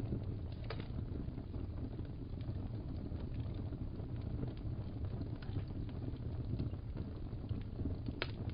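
Wood fire burning in a fireplace: a steady low sound of the flames with scattered small crackles and pops, one sharper pop near the end.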